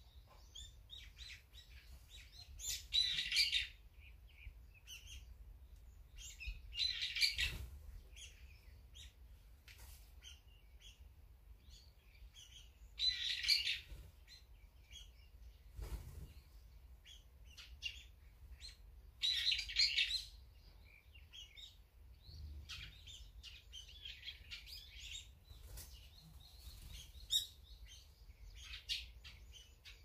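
Wild songbirds calling: four loud bursts of rapid chirping, each about a second long, spaced a few seconds apart, with scattered short chirps between them.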